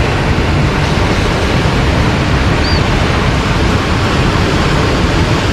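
Steady ocean surf washing onto the beach, with wind on the microphone. There is a brief high chirp about two and a half seconds in.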